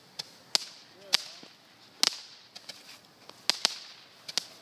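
Fireworks going off: a string of sharp cracks at irregular intervals, some in quick pairs, each with a short echo.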